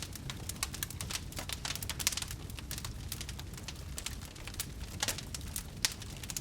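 Fireplace wood fire crackling: a dense, irregular run of small pops and snaps over a low, steady rumble of the flames.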